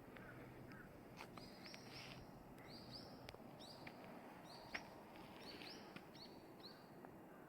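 Faint, high-pitched bird chirps, about a dozen short calls repeating roughly twice a second over low outdoor background noise, with a sharp click a little past the middle.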